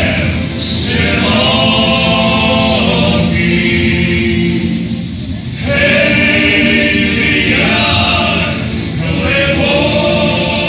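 A choir singing a song, the voices holding long notes in phrases a second or two long.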